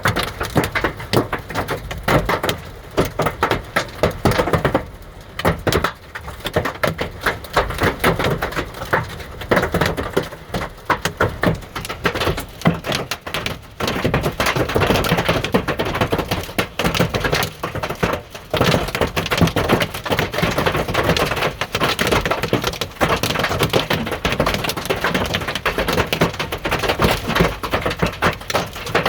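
Hailstones pelting hard surfaces in a thunderstorm downpour: a dense, irregular clatter of many small sharp impacts that keeps up without a break.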